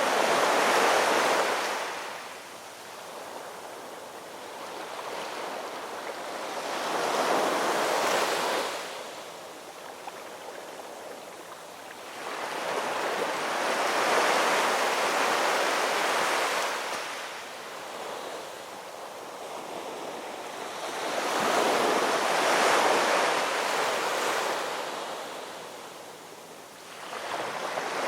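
Ocean waves washing in, each surge swelling and then falling away, about every seven seconds, with a new surge building near the end.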